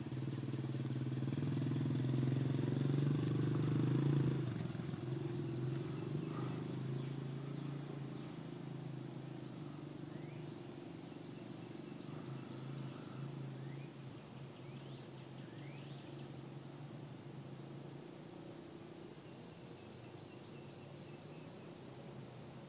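Dirt bike engine running as the bike rides off, loudest a few seconds in and then fading steadily with distance. Faint bird chirps can be heard as it dies away.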